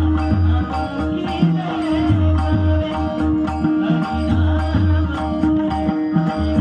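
Marathi bhajan music: a dholki drum beating a steady rhythm of deep strokes over a held drone, with small cymbals ticking along.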